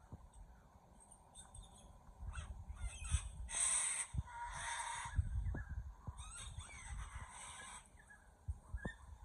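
Birds giving a series of harsh, raspy calls, loudest about three and a half seconds in and again in a longer run near the end, over a low rumble.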